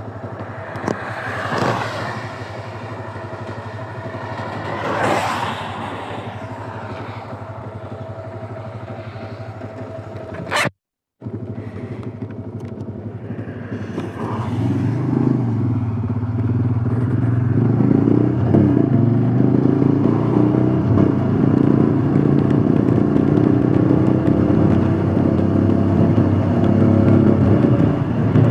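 Royal Enfield Scram 411's single-cylinder engine running low and steady, with two brief swells of passing noise early on. After a short dropout it runs louder under way, its pitch rising and falling as the throttle changes.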